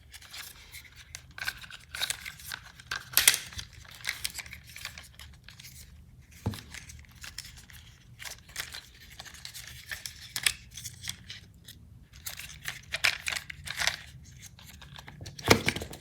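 Hands handling and twisting the plastic parts of an Optimus Prime transforming toy robot: irregular clicks, snaps and scrapes of plastic, some sharp clicks standing out.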